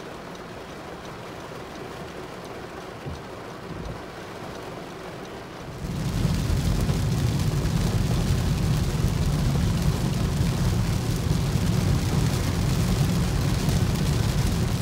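Heavy rain and wet-road noise heard from inside a moving car's cabin during a thunderstorm downpour. About six seconds in it suddenly gets much louder, with a heavy low rumble under the hiss.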